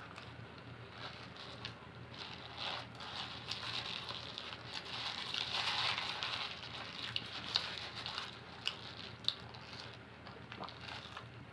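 Close-up eating sounds: biting into and chewing a falafel wrap, with wet mouth clicks and smacks and the paper wrapping rustling in the hands. A few sharp clicks stand out in the second half.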